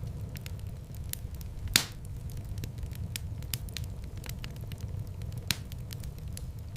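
Wood fire in a fireplace crackling, with frequent small snaps over a steady low rumble. There is one loud pop a little under two seconds in and another near the end.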